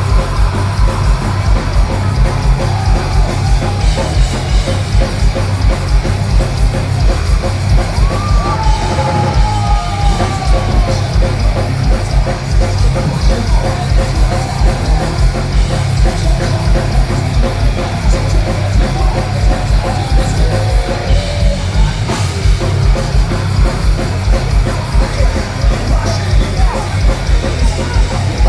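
Heavy metal band playing live at full volume: distorted electric guitars over a drum kit with a fast, driving kick drum.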